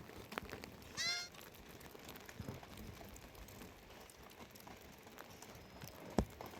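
A single short, high-pitched animal call about a second in, followed later by one sharp knock, over faint scattered rustling and clicks.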